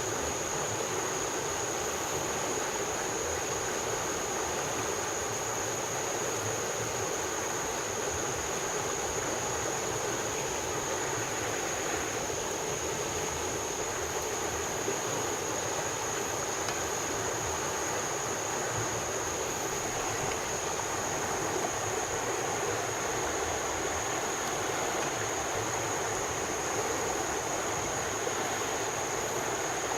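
Steady rainforest ambience: an even rushing noise with a constant high-pitched drone over it.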